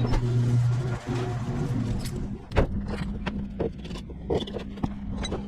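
A motor starting up and running with a steady hum, with scattered knocks and clicks over it.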